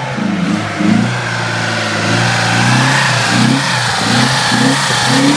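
Engine running and being revved up and down again and again.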